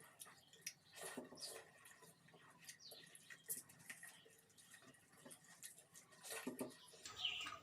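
Faint eating sounds: chewing, lip smacks and fingers working rice and curry on a plate, heard as scattered soft clicks and smacks.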